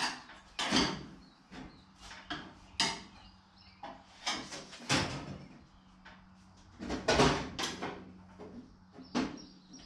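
Steel car body panels knocking and scraping against each other as they are worked into place during a test fit: a string of irregular clanks and rubs, with a panel catching on a tab.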